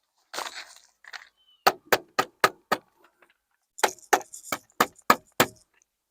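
Hammer blows: a run of about five quick strikes, then after a short pause about six more, roughly four a second, after a brief rustle.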